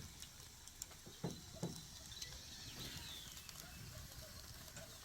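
Wood fire crackling faintly, with scattered sharp pops over a soft hiss. Two short, low sounds come at about a second and a half in.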